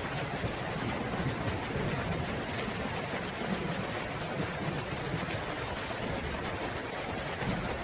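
Steady heavy rain with a low rumble underneath, the sound of a thunderstorm.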